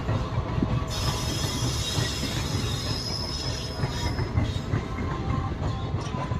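Train running on the track with a steady low rumble. About a second in, a high-pitched wheel squeal sets in and fades out after a few seconds.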